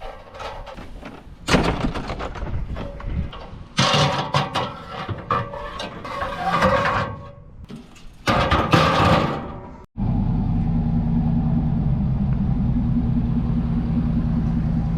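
Irregular knocks, bangs and scraping clatter, then an abrupt switch about ten seconds in to a pickup truck's engine and road noise running steadily.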